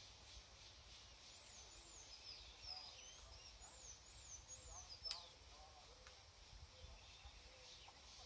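Faint background with a small bird chirping a quick run of short, curving high notes, then a single sharp click about five seconds in, over a steady low rumble.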